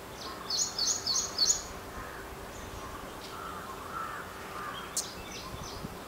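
Bird calls: a run of four quick, high chirps about half a second in, then fainter, lower calls later on.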